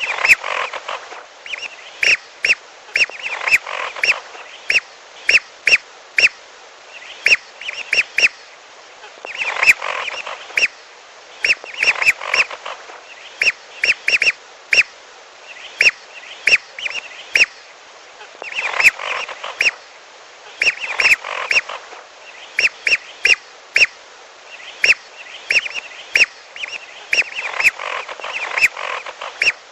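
Recorded lure call of whistling ducks (belibis): short sharp calls repeated, some alone and some packed into dense flurries every several seconds.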